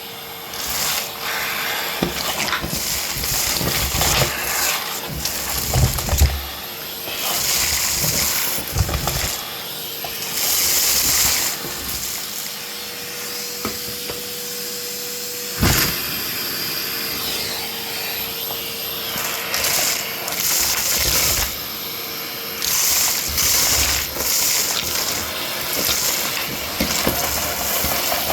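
Vacuum cleaner running and being worked over a carpet, its noise swelling and easing irregularly as the head moves. There is a single knock about halfway through.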